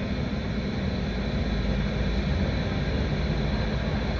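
Steady low rumbling noise with a hiss above it.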